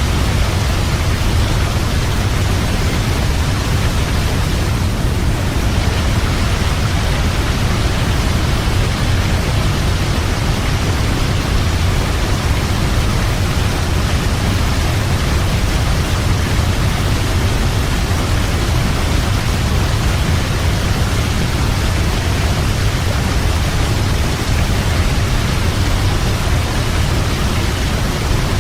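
Waterfall: a steady rush of falling water with a heavy low rumble beneath the hiss.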